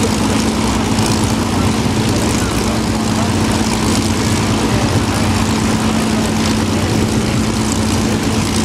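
Avro Lancaster's four Rolls-Royce Merlin V12 piston engines running with a steady, even engine note as the bomber flies by.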